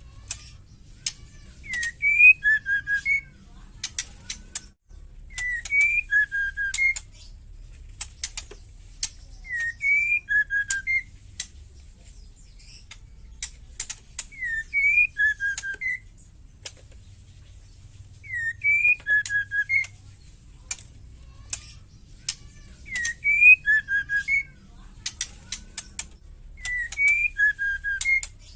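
Female white-rumped shama calling: a short whistled phrase of a few notes mixed with dry rattling clicks. The phrase repeats about every four seconds, seven times.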